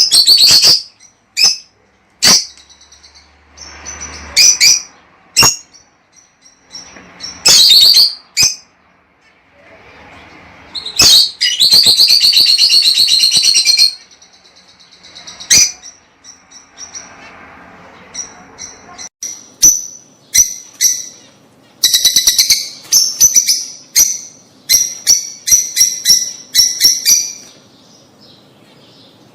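Lovebirds calling: loud, high-pitched chirps and squawks in separate bursts. A few seconds of continuous chatter come about eleven seconds in, and a fast string of chirps near the end.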